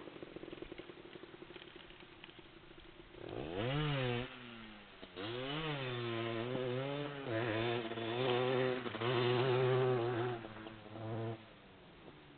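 Motocross bike engine revving: after about three quiet seconds the pitch swings up and down as the throttle is opened and closed, then holds high with brief dips for several seconds before dropping off near the end.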